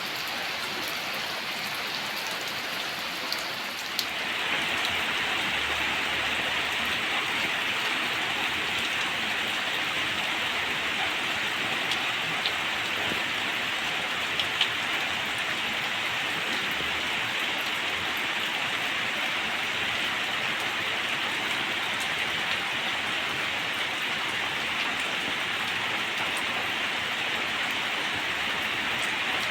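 Heavy rain falling steadily, a dense even hiss of drops that grows louder about four seconds in and then holds.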